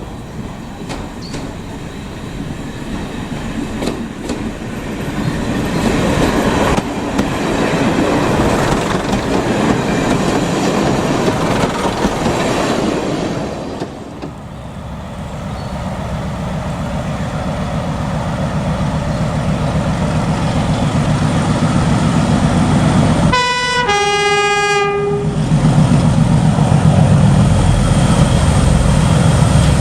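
Trains on the line: wheel and rail noise builds up over the first half, then a diesel train draws near with its engine running steadily. About two-thirds of the way through it sounds a two-tone horn, a short high note followed by a longer low note.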